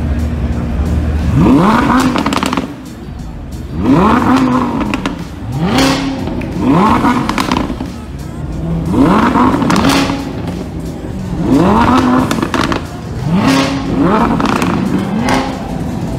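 Car engine revved again and again, about eight times: each rev climbs quickly and holds briefly at the same high pitch before falling back.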